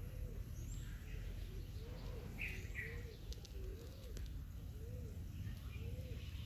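A bird calling outdoors: a short, low note that rises and falls, repeated about once a second, over a steady low rumble. A brief higher chirp comes about two and a half seconds in.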